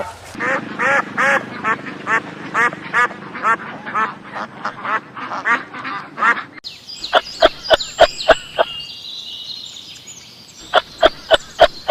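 Duck quacking over and over, about three short quacks a second. About two thirds in, the sound cuts to a different bird: short, sharp calls with a high thin whistling tone above them, then a few more short calls near the end.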